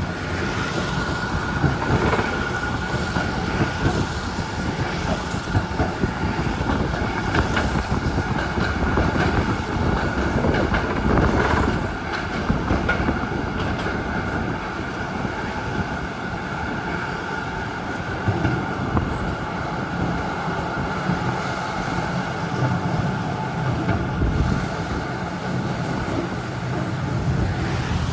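Z3-class tram running along the track, heard from on board: a steady rumble of wheels on rails with a few clacks and a steady high whine throughout.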